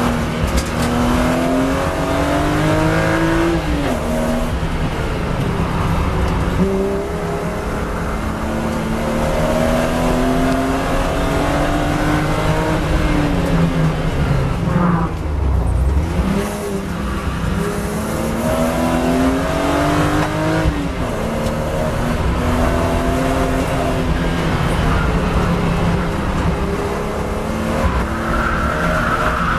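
BMW E36 M3's 3.2-litre straight-six engine heard from inside the cabin under hard driving. Its pitch climbs steadily through the revs and drops back sharply a few times as it shifts or lifts for corners.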